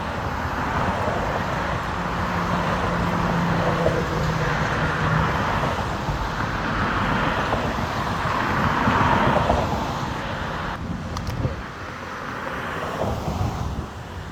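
Road traffic: cars passing one after another, their tyre and engine noise swelling and fading several times.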